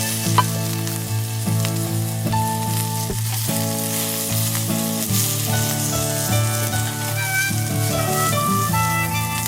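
Meat sizzling over a cooking fire, a steady crackle, with background music playing over it.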